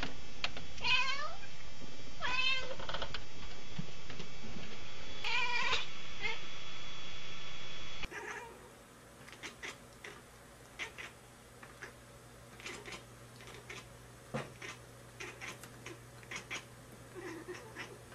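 A domestic cat yowls three times, long drawn-out cries that fall in pitch, over a steady recording hiss. After an abrupt cut about halfway through, only scattered faint clicks remain.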